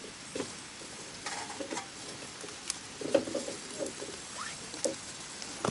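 Wood campfire crackling, with scattered small sharp pops and clicks.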